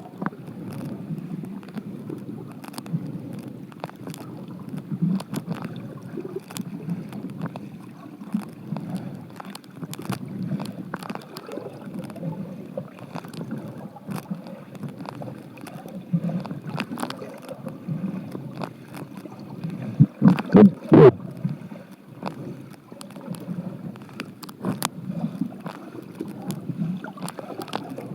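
Muffled rushing and gurgling of stream water heard from a camera held underwater, with scattered small clicks throughout. A cluster of louder bursts comes about twenty seconds in.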